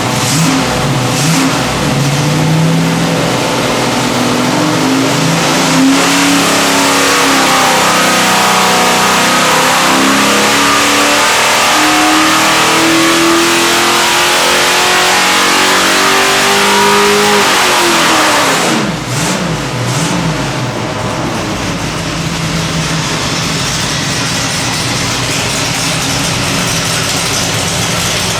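Small-block Chevy 427 stroker V8 making a wide-open-throttle dyno pull: the engine note climbs steadily for about fifteen seconds, then drops sharply as the throttle closes, and the engine runs on at low speed.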